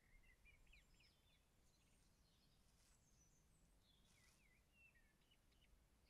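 Near silence, with faint, quick high chirps and twitters from a bird scattered through it.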